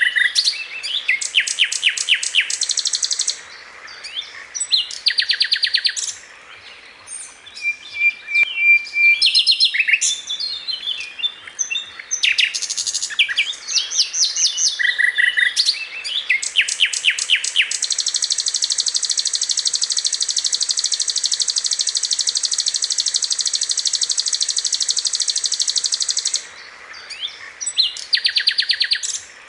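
Sikatan londo birdsong used as a masteran tutor recording: fast, high chattering trills broken by short whistled notes, then a single long, unbroken rapid trill lasting about nine seconds before the short phrases resume.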